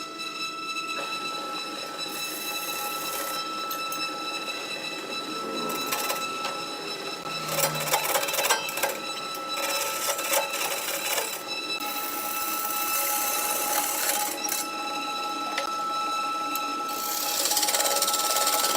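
A wood lathe's motor running with a steady whine, while a cutting tool scrapes and shaves the spinning wood in rough stretches that come and go, loudest near the end.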